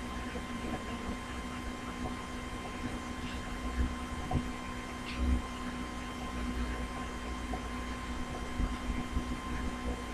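Steady electrical hum under a few faint taps and clicks.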